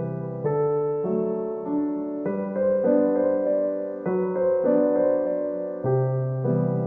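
Background music: an electric piano playing a slow sequence of chords, each held for about half a second to a second.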